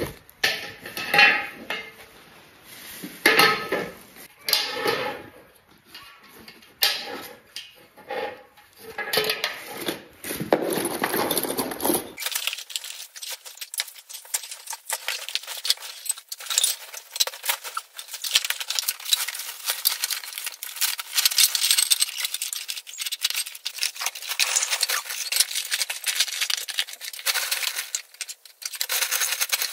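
Small metal railing parts and fittings clinking, knocking and rattling as they are handled and fastened together. About twelve seconds in, the sound changes abruptly to a thinner, unbroken patter of light clicks and rattles.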